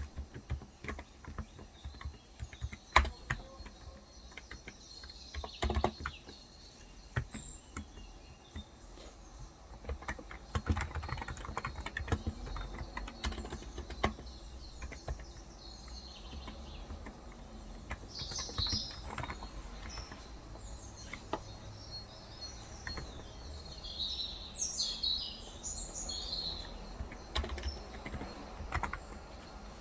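Irregular typing on a Cox Endeavour electro-capacitive (Topre-style) 35 g tenkeyless keyboard, with a few heavier keystrokes. Birds chirp in short high bursts through the second half.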